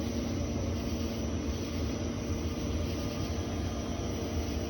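Steady low hum of a running fan or motor, with a faint steady tone over a low rumble.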